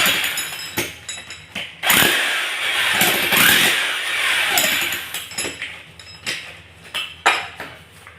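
Handheld electric power tool running in two long bursts, its pitch dipping and rising as it bites under load, followed by a few sharp knocks.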